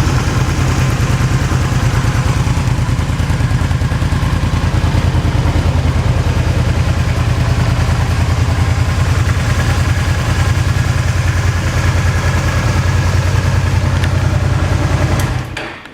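Honda Magna 250 V-twin idling through its stock muffler with a steady, even exhaust beat. The engine cuts off near the end.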